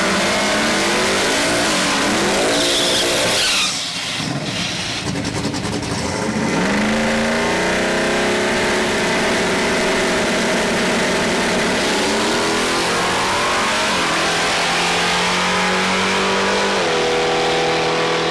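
A car's engine revving hard under acceleration, its pitch climbing and then dropping at several gear changes.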